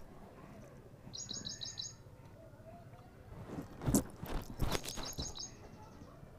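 A small bird chirping in two quick runs of about five high chirps each. A cluster of dull bumps and rustling comes just before the second run.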